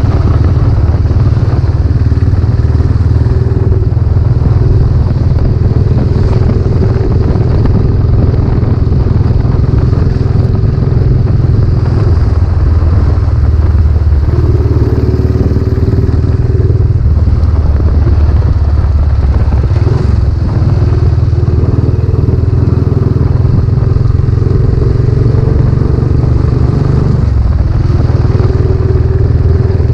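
Royal Enfield Classic 500's single-cylinder engine running under way through a new aftermarket silencer. The engine note dips and climbs again about halfway through, with another change near the end.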